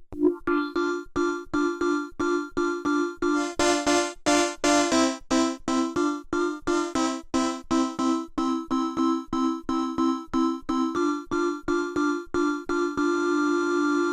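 Dreadbox Artemis synthesizer playing a repeating sequence of short pitched notes, about three a second, turning brighter around four seconds in. Near the end the notes stop retriggering and it holds one steady note.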